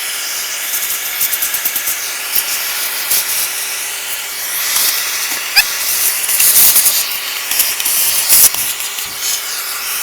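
A steady hiss of air cleaning dust out of the inside of a cassette recorder, with a faint steady hum under it and scattered clicks and crackles. It gets louder about halfway through.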